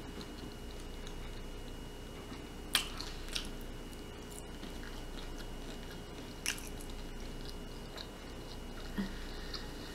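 Close-up chewing and mouth sounds of someone eating a forkful of buttery shrimp. Two sharp clicks stand out, about three seconds in and again about six and a half seconds in.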